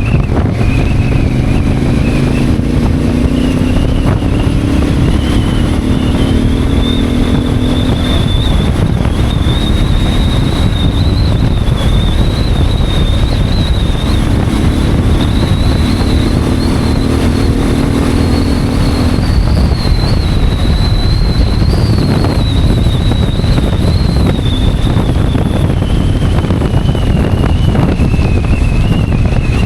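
Honda Africa Twin motorcycle riding under heavy wind noise on the microphone. The engine's pitch climbs twice as it accelerates, once near the start and again about halfway through. A thin high whine wavers in pitch throughout.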